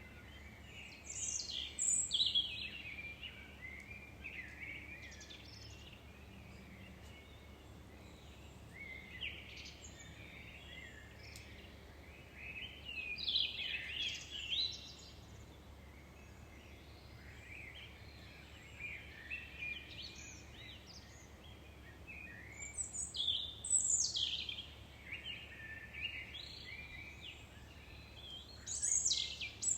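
Songbirds singing in phrases of a second or two, with a few seconds between them. A faint steady low hum sits underneath.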